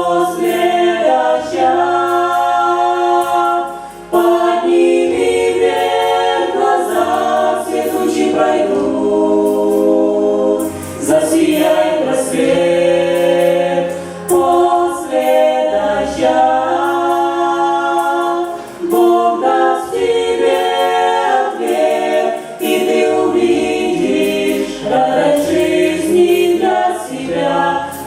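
Choir singing a worship song, many voices in harmony.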